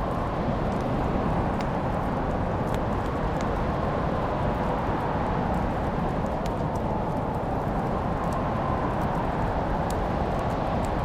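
Fireplace fire crackling: scattered sharp pops over a steady rushing noise.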